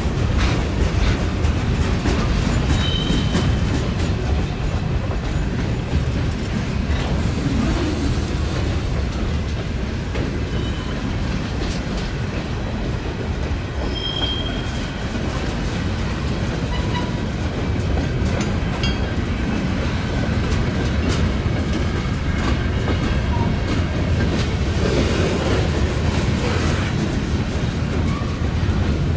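A train passing close by: steady noise of railcar wheels on the track, clicking over rail joints, with a few brief high wheel squeals.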